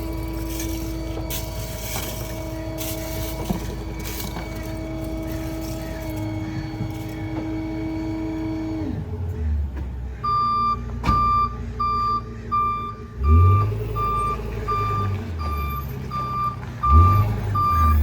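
Rear-load garbage truck (Ford F-550 with a New Way Diamondback body) with a steady mechanical whine over its engine for about the first half, then its backup alarm beeping about one and a half times a second as it reverses. The engine revs up twice while it backs, and there is one sharp knock just after the beeping starts.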